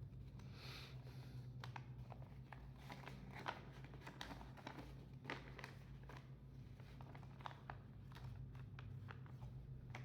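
Faint rustling and crinkling of paper being handled and folded by hand, with scattered small crisp ticks, over a steady low hum.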